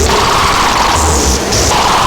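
Recursive Machine DIY synthesizer playing a loud, noisy looping pattern. A low bass pulse and a burst of hiss come together about a second in, over a steady band of noise in the middle register, and the pattern repeats about every second and a half.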